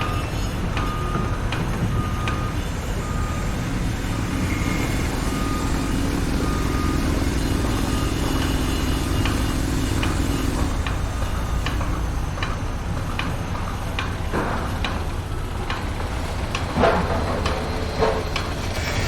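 A truck's reversing alarm beeping steadily over a low heavy-vehicle engine rumble; the beeping stops about halfway through. Scattered knocks follow, with a few louder clanks near the end.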